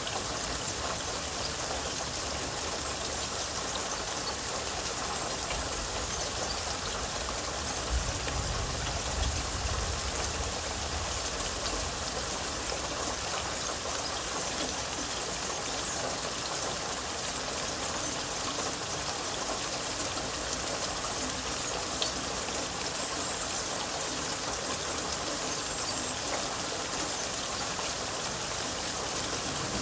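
Steady rain falling, an even hiss, with a low rumble swelling briefly from about eight to eleven seconds in.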